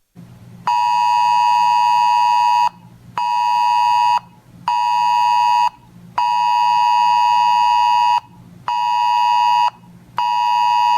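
Weather radio alert beeper sounding a buzzy tone of about 1 kHz in a repeating pattern of one long beep and two short ones, heard twice. It signals that an alert has been received, here a wind advisory.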